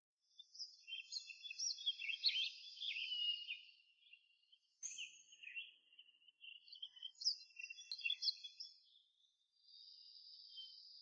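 Faint songbirds singing, quick high chirps and trills in several bursts, with a steady high buzz near the end.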